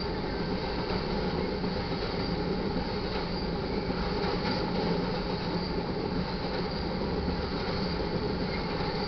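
Freight train tank cars rolling past at steady speed: a continuous rumble and rattle of steel wheels on the rails, holding at an even level.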